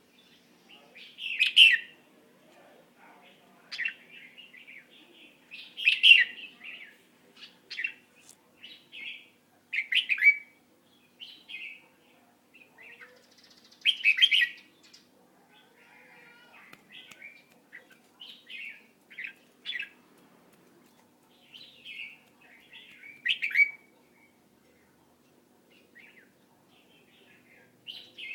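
A bird chirping in short, irregular calls every second or two, with a faint steady hum underneath.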